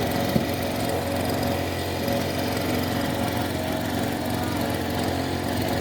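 A small engine running steadily at a constant speed, with a brief click about half a second in.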